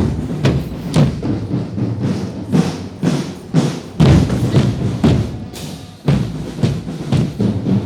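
Percussion-led music: drums struck in a steady beat about twice a second.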